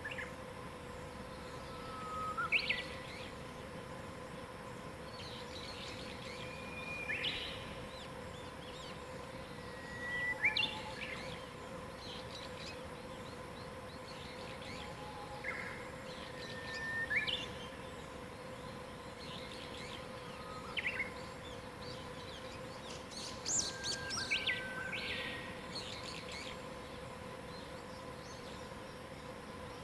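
Songbirds singing short whistled phrases every few seconds, several at once near the end, over a steady faint hum and background noise.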